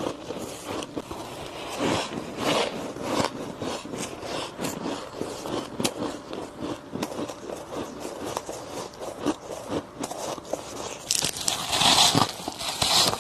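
Close-miked biting and crunching of soft frost ice: a dense run of small crackly crunches, growing louder near the end.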